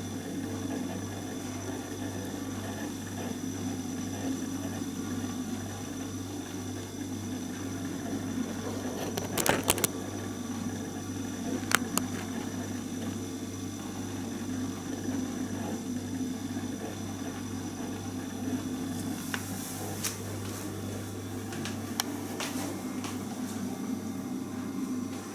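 Indesit SFR100 freezer running with a steady, pulsing hum and a few sharp clicks and ticks, near the start of the second half and again later on. The owner measures it at 65 dB against its rated 43 dB and takes it for faulty.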